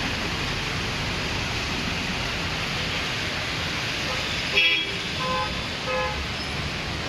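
Steady street noise of road traffic, with a vehicle horn tooting briefly about two-thirds of the way in, followed by two shorter beeps.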